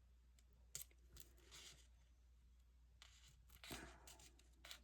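Faint paper handling: a few soft, short rustles and small clicks as paper pieces are picked up and laid down.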